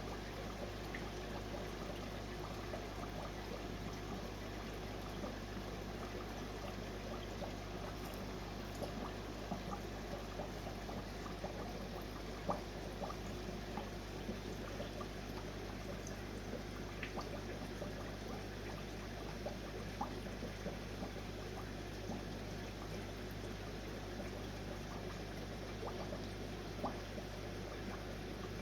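Steady trickle of water in a shrimp aquarium, over a low, constant hum, with faint scattered clicks, one a little louder about twelve seconds in.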